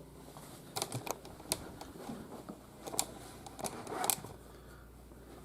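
Irregular light plastic clicks and taps as a toy robot figure is handled and set in place among other figures.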